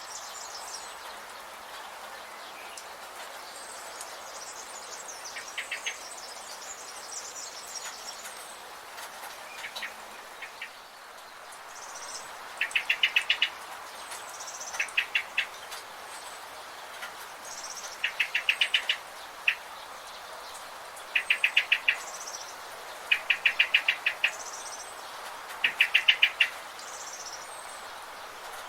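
Forest birds calling over a steady background hiss. One bird repeats short rattling series of rapid notes every two to three seconds, starting about a third of the way in, while higher short chirps come in between.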